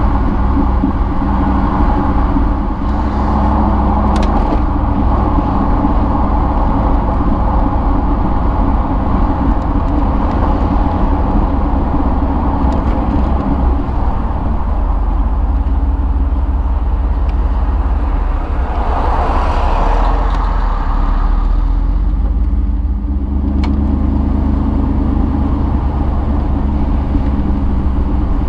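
1992 Chevrolet Camaro's V8 engine running steadily while driving, with road noise. A louder rush of noise comes about two-thirds of the way through.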